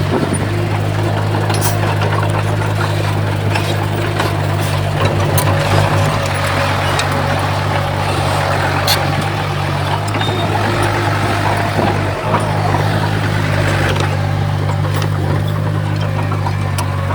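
Komatsu D31P bulldozer's diesel engine running steadily under load, with scattered metallic clanks.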